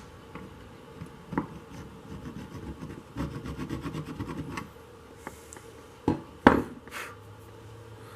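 Hand-tool work on a motorcycle part: a stretch of rapid, evenly spaced scraping strokes, then a few sharp metal knocks, the loudest about six and a half seconds in.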